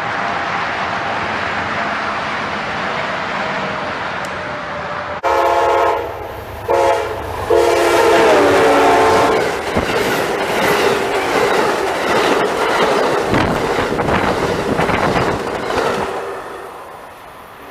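A train passing close by: steady rail rumble, then the locomotive horn sounds three times, the last blast long, with its pitch dropping as the locomotive goes past. Wheel and car noise follows and fades near the end.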